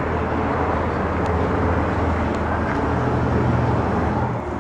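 The 2007 Mercury Mariner's 3.0-litre dual overhead cam V6 idling with a steady low hum.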